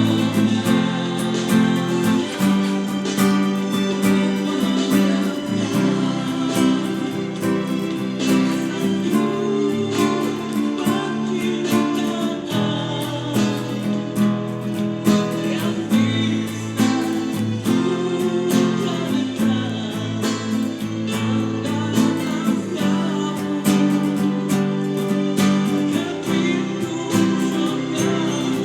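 Evo classical guitar played with plucked nylon strings, a continuous run of picked melody notes over chords.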